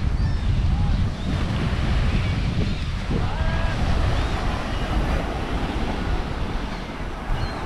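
Wind buffeting the microphone over the steady wash of surf on a sandy beach.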